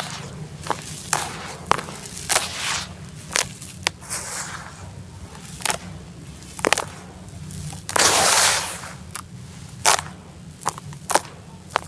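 Molded sand-cement chunks cracking and crumbling: a series of sharp, irregular snaps with gritty crumbling rushes between them, the longest and loudest about eight seconds in.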